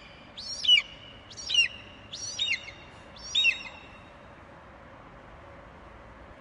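Eagle calling: four short, high screeches about a second apart, each rising and then falling in pitch, followed by a pause of a couple of seconds.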